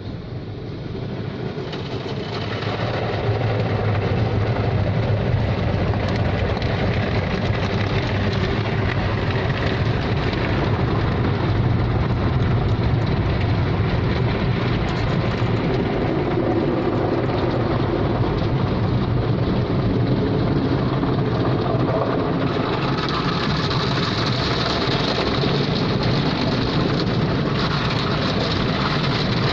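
Automatic car wash machinery running, heard from inside the car: a loud, steady rushing noise that builds over the first few seconds and turns hissier about two-thirds of the way through.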